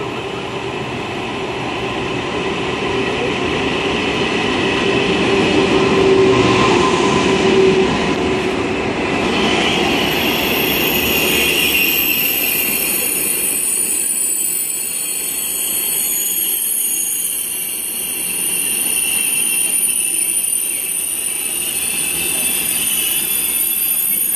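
KTX high-speed train pulling into the station: its running noise builds as it passes close, then fades as it slows. From about ten seconds in, a high steady squeal of braking wheels joins and holds as it comes to a stop.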